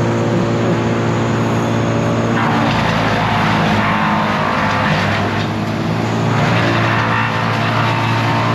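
Heavy engine of tree-removal machinery running steadily, with two long surges of harsh, grinding noise over it.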